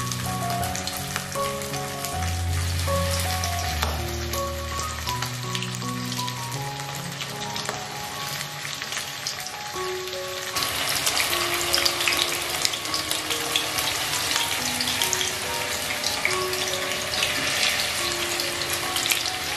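Batter-coated chicken pieces sizzling and crackling as they fry in hot oil, getting louder about halfway through, over background music.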